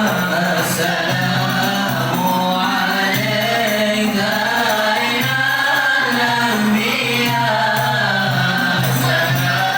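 A group of voices singing a qasidah in unison, a wavering melody over steady low sustained notes.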